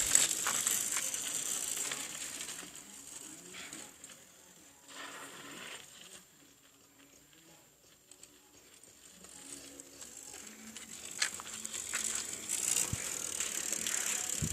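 A Caloi bicycle being ridden over forest ground, with tyre and drivetrain noise. It fades almost to nothing about halfway through and grows louder again toward the end, as the bike moves away and comes back.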